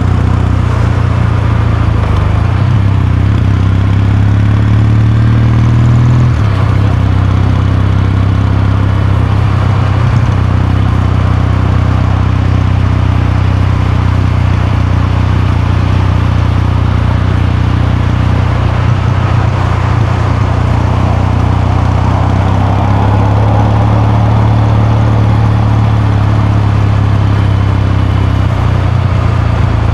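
Kawasaki Meguro K3's parallel-twin engine and exhaust while riding. The engine note climbs under acceleration for a few seconds, drops abruptly about six seconds in as it shifts up a gear, then runs at a steady cruise with a gentle rise near the end.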